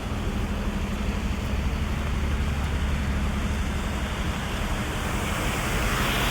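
Heavy rain on a city avenue with traffic on the wet road: a steady low rumble of vehicles under an even hiss of rain and tyres, the hiss swelling near the end as a vehicle passes.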